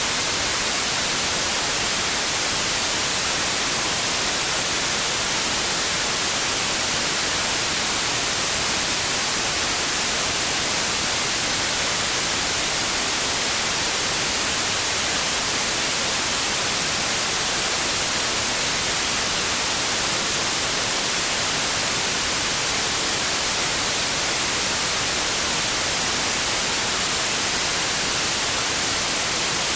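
Steady, unchanging white noise: an even hiss, brightest in the treble, with no rise or fall.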